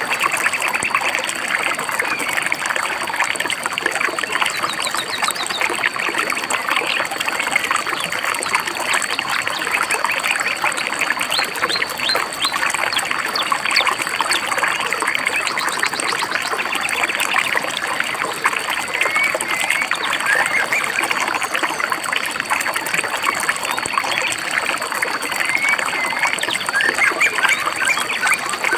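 Shallow river babbling and trickling steadily, with small birds chirping over it in short bursts of calls now and then. A thin, steady high-pitched tone runs underneath.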